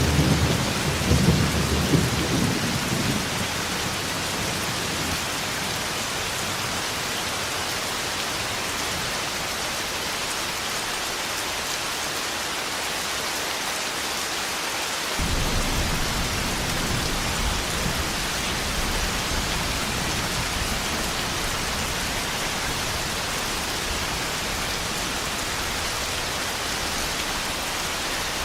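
Thunderstorm: steady heavy rain with rolling thunder. The opening rumble fades out within a few seconds, and a second low rumble starts abruptly about halfway through, then slowly dies away.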